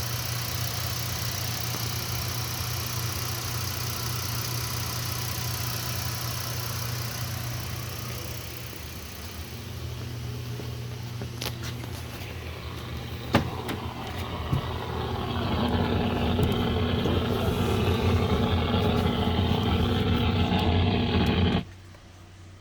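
V6 engine from a 2010 Lincoln MKS with 144,000 miles running during a run test. It runs steadily, eases off briefly, and after a sharp click runs louder for several seconds before the sound stops abruptly near the end.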